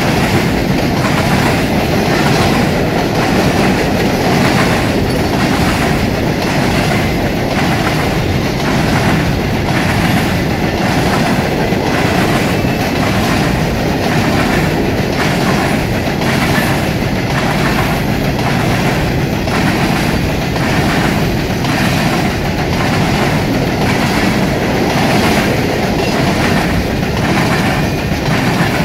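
CSX coal train of black steel hopper cars rolling steadily past close by, its wheels clattering over the rail joints and the diamond crossing in a regular clickety-clack.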